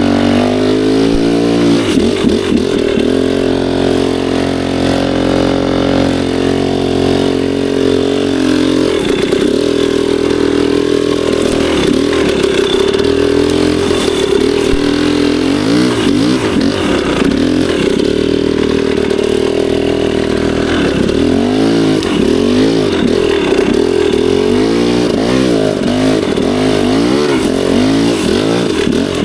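Dirt bike engine running hard on the throttle, its pitch rising and falling continuously as the rider revs up and backs off.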